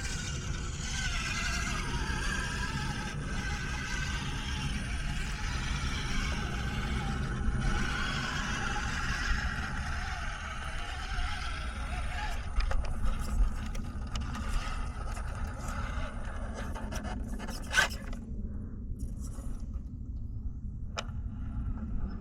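Small RC rock crawler's electric motor and gears whining as it climbs over rock, the pitch rising and falling with the throttle, along with scraping of the tyres and chassis on stone. The whine fades about halfway through, followed by a few clicks and one sharp knock.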